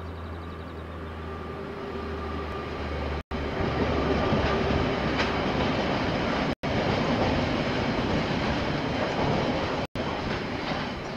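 KiwiRail train passing on the line: a steady low diesel locomotive engine hum for the first few seconds, then the rumble and clatter of wagons rolling over the rails, loudest in the middle and fading near the end. The recording cuts out for a split second about every three seconds.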